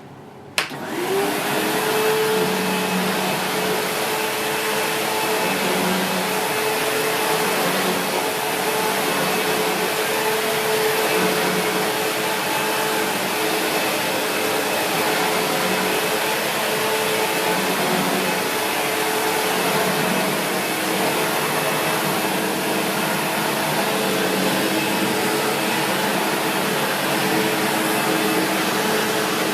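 SEBO X4 Extra upright vacuum cleaner switched on with a click about half a second in, its motor spinning up to speed and then running steadily while vacuuming, the sound swelling and easing every second or two.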